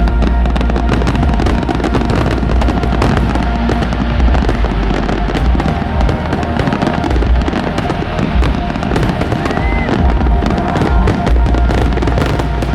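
Fireworks display at full intensity: continuous rapid crackling over heavy low booms from bursting shells, with no break.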